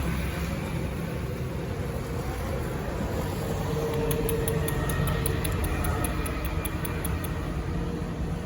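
Steady low rumble of outdoor background noise. A faint short tone comes in about four seconds in, followed by a rapid run of faint high ticks, about four a second, until near the end.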